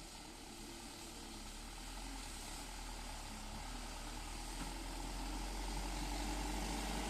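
Vehicle engine running with a low, steady rumble that grows gradually louder.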